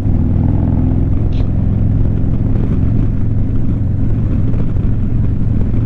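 Harley-Davidson V-twin motorcycle engine running steadily at highway cruising speed, a continuous low drone with road and wind noise over it.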